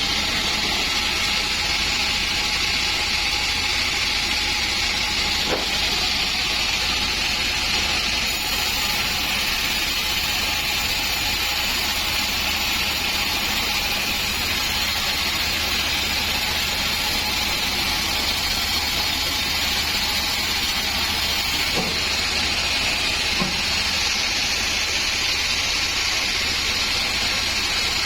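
Large sawmill band saw running steadily with a constant hiss over a low hum, sawing dry acacia wood. A few faint knocks come through, one about five seconds in and two more near the end.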